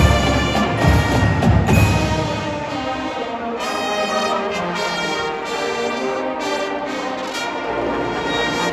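Pep band playing, the brass section (trumpets and trombones) holding sustained notes. Bass drum beats in the first couple of seconds, then the drums drop out and the horns carry on alone.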